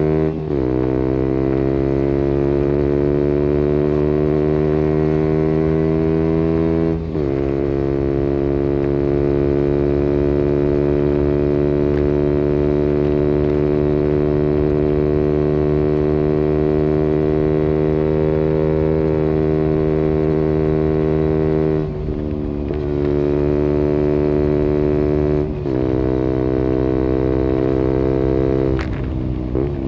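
KTM Duke 125's single-cylinder four-stroke engine pulling steadily under load, its pitch climbing slowly in each gear. About five gear changes break it, each a brief dip in level followed by a lower pitch that climbs again.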